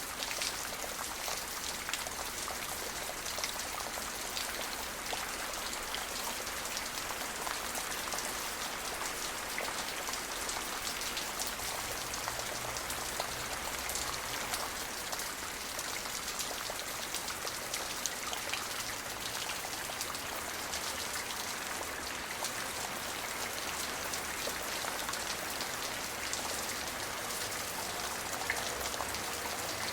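Steady rain falling, with the fine patter of many individual drops hitting a surface.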